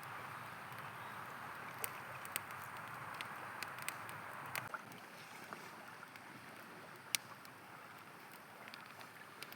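A river flowing steadily with a campfire crackling over it: scattered sharp pops and snaps, one louder pop about three-quarters of the way through. The rushing water drops a little in level about halfway through.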